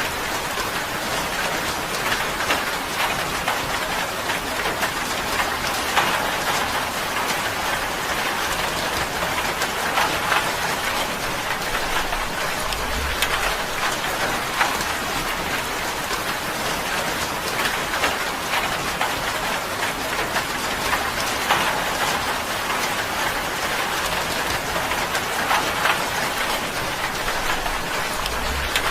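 Steady rain falling on a tin roof, a dense patter with many distinct drops striking the metal.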